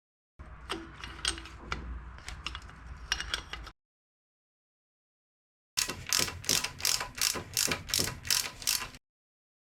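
Ratchet wrench clicking as it turns fasteners on a motorcycle engine, in two stretches about two seconds apart: the first uneven, the second a steady run of about four clicks a second.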